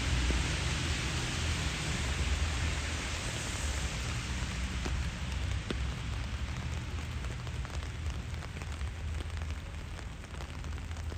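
Steady rain falling, with a low rumble underneath. A hiss eases off over the first half, after which the separate ticks of individual raindrops stand out.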